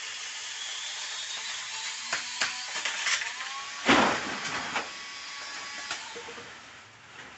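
Small electric chainsaw running and cutting, a steady high whine and hiss with scattered clicks. A loud crash comes about four seconds in, and the saw fades away near the end.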